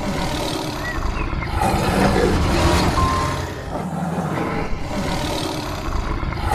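Big cat growling: low, rough rumbling calls that swell about a second and a half in, ease off past the middle and swell again near the end.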